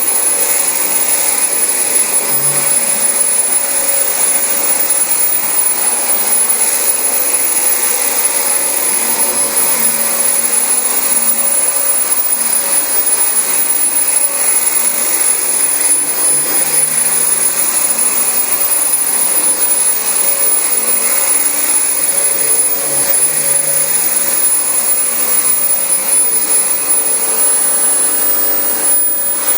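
Dyson DC25 bagless upright vacuum cleaner running steadily on carpet, a constant rushing noise with a thin high whine over it.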